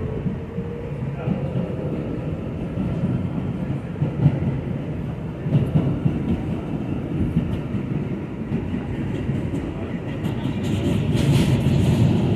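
New York City subway A train running on the track, a steady low rumble of wheels and running gear with scattered clacks. It grows louder and harsher over the last couple of seconds.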